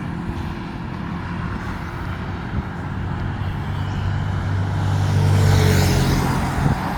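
A motor vehicle drives past on the road. Its engine hum grows louder over a few seconds, is loudest with tyre hiss about five and a half seconds in, then fades, over steady traffic background.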